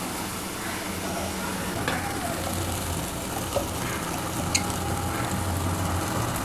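Onion-tomato masala sizzling gently in oil in a kadhai, cooked down to the stage where the oil separates, over a low steady hum. A few light clicks come through as cashew paste is tipped in from a steel bowl.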